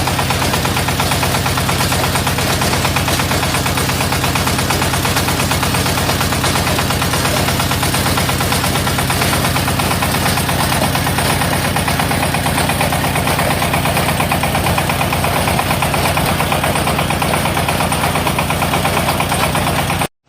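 Diesel engine of a portable hydraulic water well drilling rig running steadily with a rapid, even beat, cutting off abruptly at the very end.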